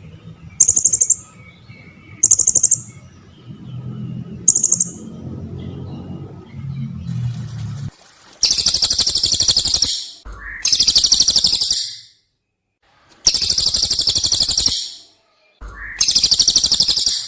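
Recorded calls of a cililin and a serindit (blue-crowned hanging parrot) used as a bird-mastering track. Three short, high trilled chirps come over a low hum in the first half. Then come four long, dense, shrill trills of about a second and a half each, with short gaps between them.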